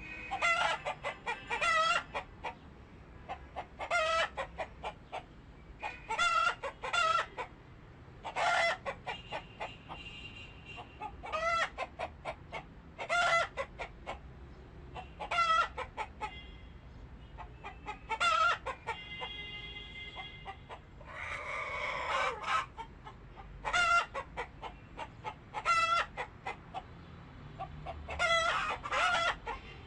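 Chickens clucking in short bursts that recur about every two seconds, with a longer drawn-out call and a harsher squawk about two-thirds of the way through.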